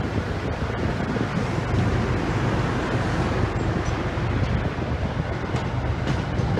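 Train rumbling past, heard as a steady rushing noise with wind on the microphone and no horn.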